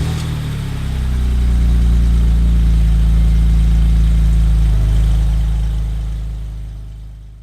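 A 1979 Honda CB650's air-cooled inline-four engine running at a steady idle just after starting, fading out over the last couple of seconds.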